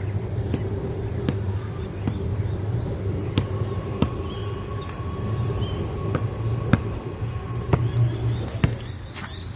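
Train passing over the bridge: wheels knocking sharply and irregularly over rail joints above a steady low running drone, with a thin steady whine through the middle.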